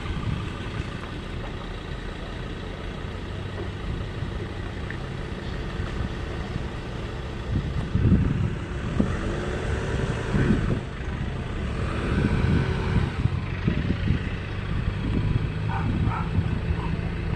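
Steady low engine rumble with a constant hum, swelling louder for a few seconds about halfway through.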